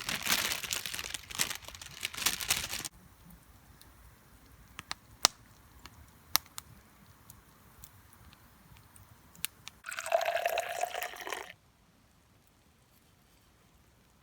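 Liquid being poured in two spells: about three seconds at the start and about a second and a half near the end. Scattered sharp crackles from the campfire come in between.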